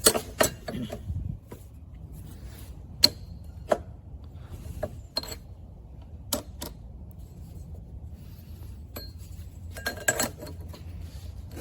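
Metal tools and parts being handled: scattered sharp metallic clinks and clanks, about a dozen spread out with a quick cluster near the end, over a low steady hum.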